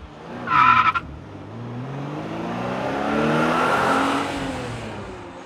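Ford 7.3L Power Stroke turbo-diesel V8 revving up and back down through a new 4-inch stainless exhaust with muffler, rising for about two seconds and settling back toward idle. A short, loud, high squeal comes about half a second in.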